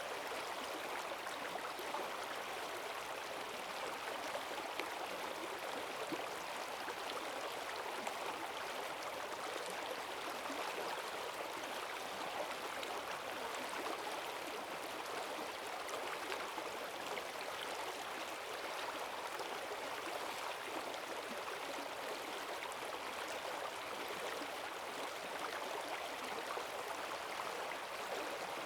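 Forest stream running high after heavy rain: rushing water with a steady splashing and gurgling wash, even throughout.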